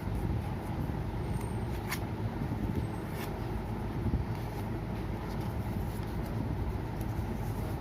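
Steady low rumble, with a couple of faint crisp rustles of paper being handled and folded about two and three seconds in.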